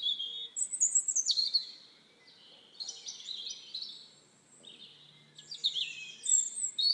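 Birds chirping and tweeting: short, high, quickly gliding calls in three clusters with short pauses between them.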